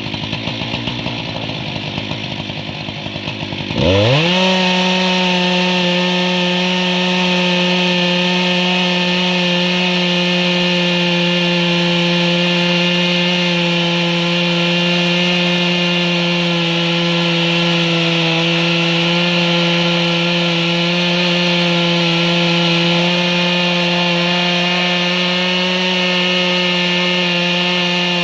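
Chainsaw engine going from a lower, uneven run to full throttle about four seconds in, its pitch jumping up sharply. It then holds a steady high-pitched run while sawing wood into boards.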